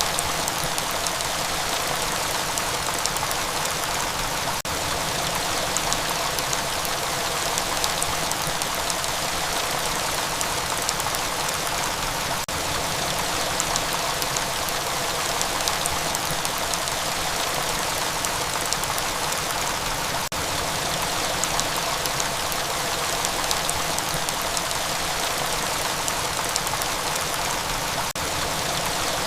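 Steady rain falling, a dense even hiss of rainfall with fine individual drop ticks scattered through it.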